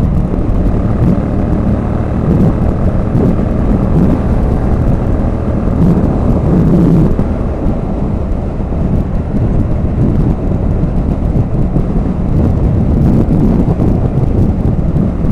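Motorcycle cruising steadily at motorway speed on a throttle lock, engine and road noise heard under heavy wind buffeting on the rider's microphone.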